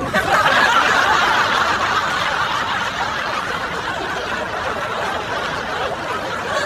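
A group of people laughing steadily together, like a laugh track. The laughter cuts off abruptly at the very end.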